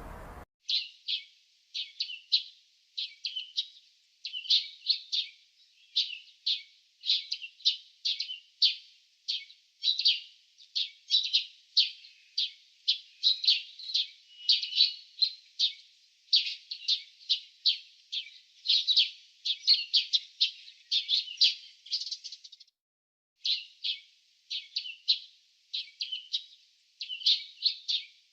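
Small birds chirping: a fast, dense run of short high chirps, several a second, broken by a pause of about a second roughly three-quarters of the way through.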